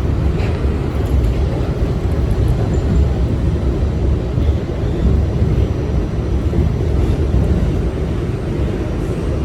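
Steady low rumble of a New York City subway car running between stations, heard from inside the car.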